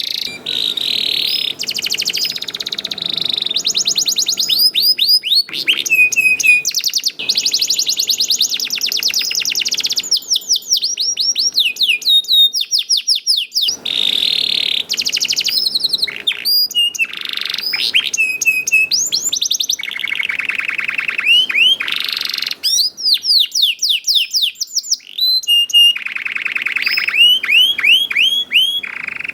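Domestic canary singing continuously, in fast rolling trills and runs of rapid repeated down-swept chirps, high-pitched and loud, with brief pauses between phrases.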